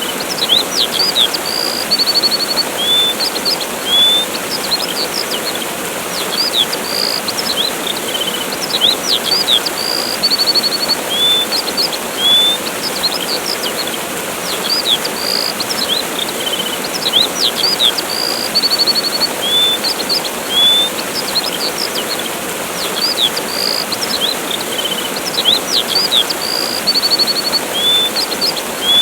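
Steady rush of a waterfall with small birds chirping over it: short upward-sweeping calls and brief buzzy trills, the same pattern of calls coming round about every eight seconds.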